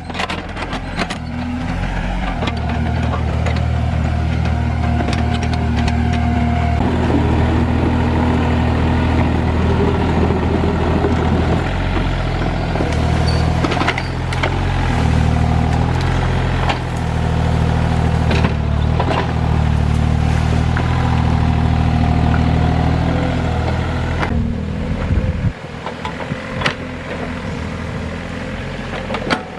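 Hydraulic excavator's diesel engine working under load, its pitch shifting with the load, with scattered knocks and cracks. About 25 seconds in the engine drops to a lower, quieter note.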